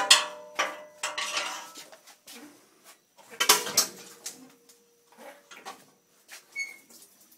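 Metal clanking and rattling with a ringing after-tone as an engine is hauled up on an engine hoist: a sharp clank and rattle at the start, then a second loud burst of clanks about three and a half seconds in, with lighter knocks after.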